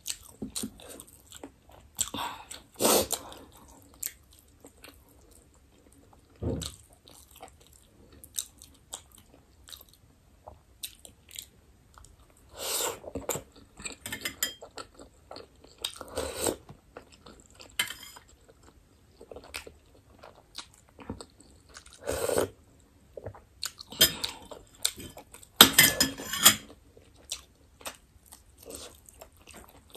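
A person eating chicken momos close to the microphone: bites and chewing in irregular short bursts with pauses between.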